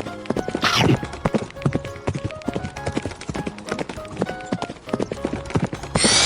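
Cartoon sound effect of hooves clip-clopping quickly, over light music with short plinking notes. A quick falling swoosh comes about a second in, and a bright sweep starts near the end.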